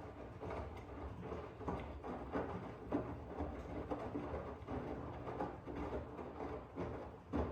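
Miele W1 Active washing machine running: a steady low hum with irregular knocks and swishes from the turning drum.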